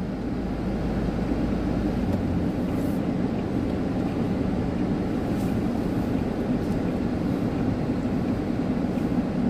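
Steady rumble of a vehicle travelling along a road, engine and tyre noise running evenly without changes.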